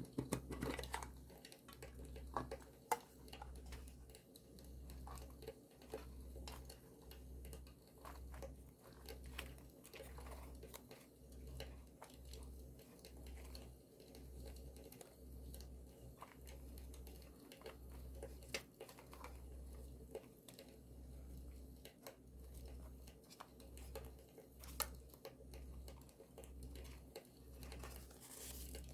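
Paper rustling and crinkling with scattered sharp crackles and clicks, as scrapbooking materials are handled, over campfire crackle. Under it there is a low pulsing rumble about once a second.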